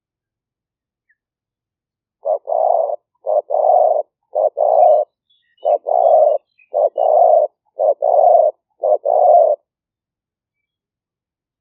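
Spotted dove cooing: a series of seven two-part coos, each a short note followed by a longer one, beginning about two seconds in.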